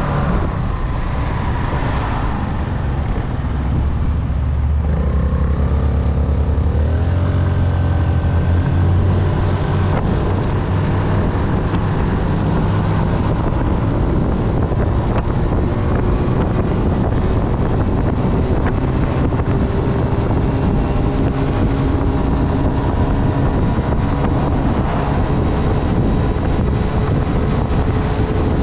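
Honda Navi's small single-cylinder engine running under way, with wind noise on the microphone. Its pitch rises about six seconds in as it picks up speed, then holds steady.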